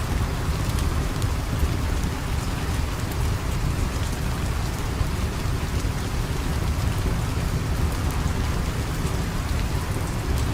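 Steady rain falling, an even hiss with a heavy low rush, with scattered small sharp clicks on top.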